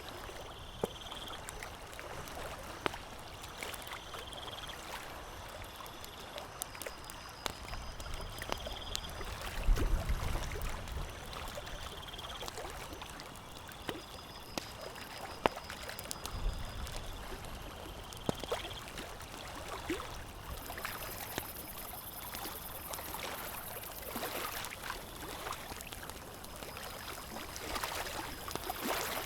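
Campfire crackling with scattered sharp pops over a steady wash of lapping water, with a short high chirp repeating every few seconds. A low thud about ten seconds in, and a softer one a few seconds later.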